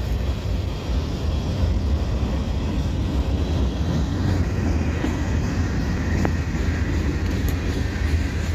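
Freight train cars rolling past on the track: a steady low rolling noise of wheels on rail, with a faint click or two in the second half.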